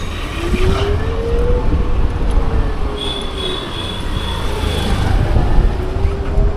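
Bajaj Chetak electric scooter riding along, with heavy wind buffeting on the microphone and road rumble. The electric motor's whine rises in pitch as the scooter speeds up, then slowly falls. A thin high squeal sounds briefly around the middle.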